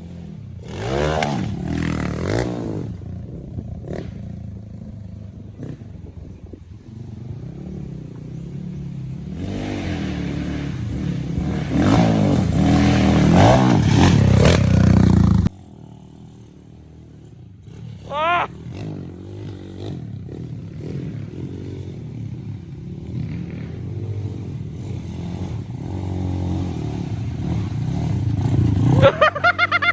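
Single-cylinder four-stroke engines of Honda XRM125 underbone motorcycles revving up and down on a dirt motocross track. The engine sound is loudest around the middle and cuts off suddenly about halfway through, followed by quieter running with short revs rising in pitch.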